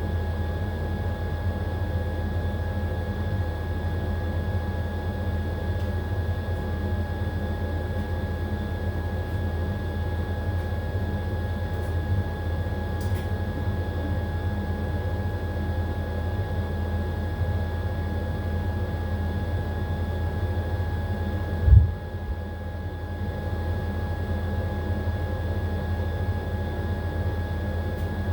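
AQUA AQW-DX12M drum washing machine running at a steady speed, most likely in its spin cycle, with a deep drum hum and a steady motor whine. About three-quarters of the way through there is one heavy thump, after which the sound briefly drops a little.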